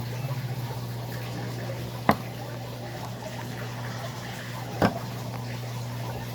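Electrolux LAC13 top-load washing machine running: a steady low motor hum under trickling, gurgling water. Two sharp clicks, about two seconds in and near the five-second mark, are the loudest sounds.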